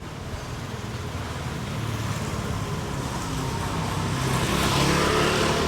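Road traffic passing: a steady low rumble of vehicle engines and tyres that grows louder about four seconds in.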